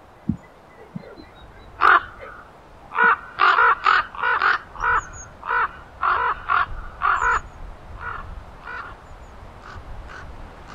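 A bird giving a rapid series of harsh, cawing calls, loud from about two seconds in for some five seconds at roughly two calls a second, then fainter, sparser calls near the end.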